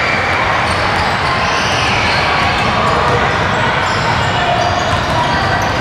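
Basketball game sounds in a gym: the ball bouncing on the hardwood floor amid a steady background of players and spectators talking.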